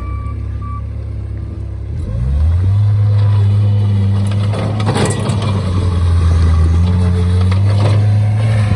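Bobcat skid-steer loader's engine running, revving up about two seconds in and then holding at higher revs, with a sharp clatter about five seconds in.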